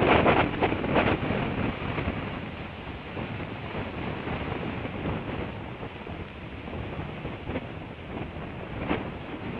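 Wind buffeting an outdoor nest-cam microphone: strong gusts in the first second, then a steadier rushing.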